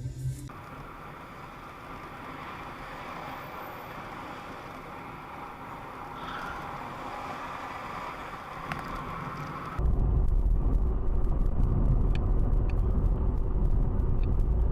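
Dashcam recording of a car driving in traffic: a steady hiss of road and traffic noise. About ten seconds in it cuts abruptly to a louder, deep rumble of engine and road noise.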